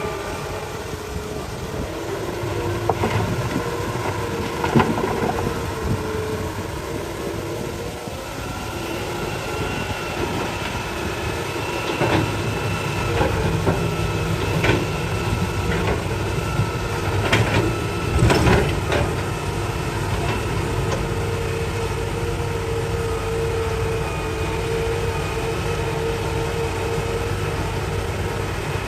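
Hitachi excavator digging rock: the engine runs steadily with a whine from the hydraulics, and the bucket strikes and scrapes against rock in a scatter of sharp knocks.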